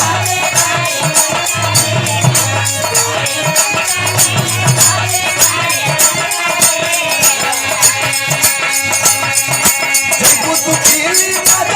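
Bhojpuri birha folk music playing without singing: an instrumental passage with quick, steady rattling percussion under a sustained melody line.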